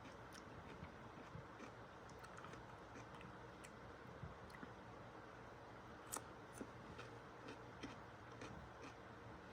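Near silence with faint, scattered small clicks and ticks, the clearest about six seconds in.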